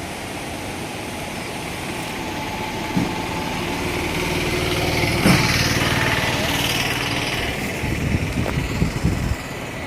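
A small engine passes close by, growing louder to a peak about five seconds in and then fading away, over a steady rushing noise. Irregular low buffeting of wind on the microphone near the end.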